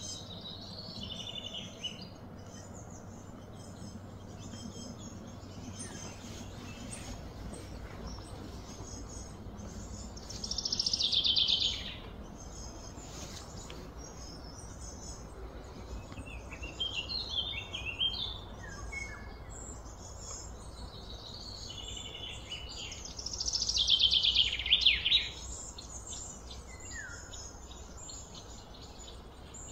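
Birds calling and chirping throughout, with two louder rapid trilled songs, one about ten seconds in and another near twenty-three seconds, over a steady low outdoor background noise.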